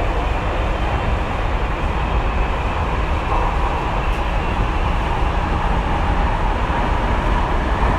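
Tokyu 2020 series commuter train running at speed, heard from inside the car: a steady rumble of wheels on rail. A faint steady whine joins about three seconds in.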